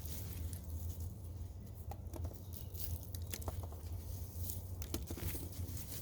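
Soil and weeds being dug through and pulled up by hand: scattered crunching, scraping and tearing, over a steady low hum.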